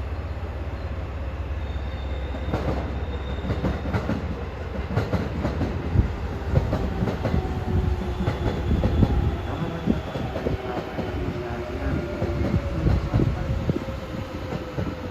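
Electric passenger train running on rails: a steady rumble with a faint steady whine, and irregular clattering knocks of the wheels over the track that start a few seconds in.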